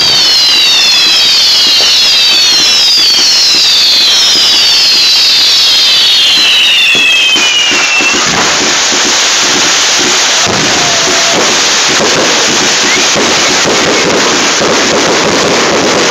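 Loud consumer fireworks: a swarm of overlapping whistles, each falling in pitch, for about the first half, then a dense, continuous crackling for the rest.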